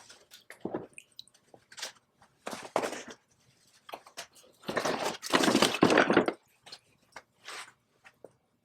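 Hand work on metal parts: a string of short scrapes and knocks, the longest and loudest scrape lasting about a second and a half in the middle.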